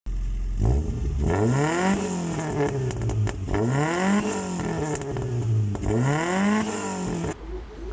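Car engine revved three times, each rev climbing and then falling back. The sound cuts off suddenly near the end.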